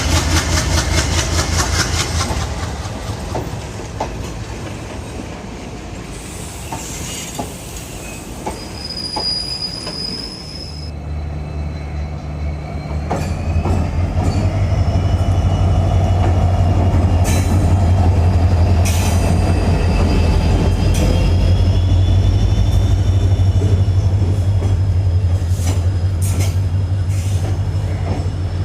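A train running on rails past an EMD diesel locomotive: wheels clattering at first, then wavering wheel squeal. A deep diesel engine drone comes in about a third of the way through and swells louder to stay strong.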